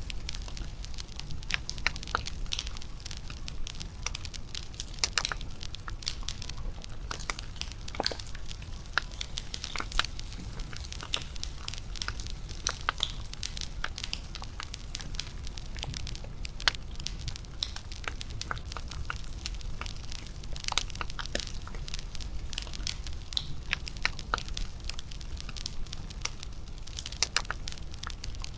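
Wood bonfire crackling, with dense irregular sharp pops over a steady low rumble.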